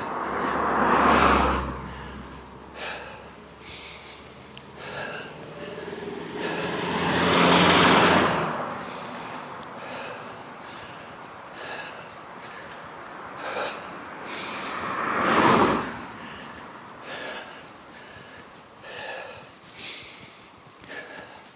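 Three motor vehicles passing close by on a road, one after another, each rising and falling over about two seconds. Between them a person breathes hard in short, regular puffs from climbing a hill.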